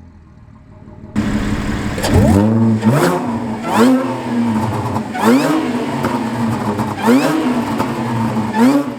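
Supercharged 3.0 V6 of a 2012 Audi S4 B8 through catless test pipes and an AWE Track Edition exhaust, revved in about six quick blips that rise and fall in pitch. Sharp crackling pops come with each blip as the revs drop, from the crackle tune. The sound comes in suddenly about a second in.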